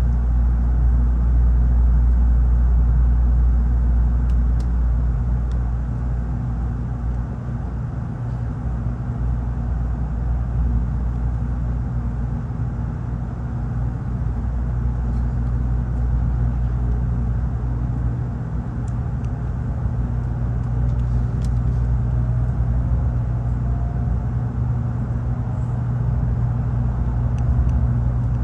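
Interior running noise of a Tokaido Shinkansen train: a steady low rumble with a droning hum, easing slightly a few seconds in and building again, with a few faint ticks.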